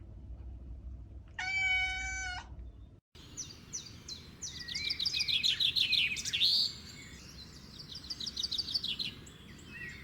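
A single animal cry about a second and a half in, one steady pitched call lasting about a second, then after a cut a bird chirping in quick repeated high notes, busiest in the middle.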